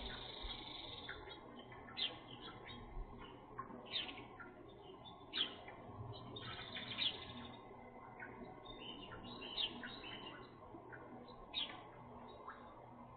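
Small birds chirping: short, sharp tweets and call notes from several birds, one every second or so and sometimes in quick runs, over a steady low hiss.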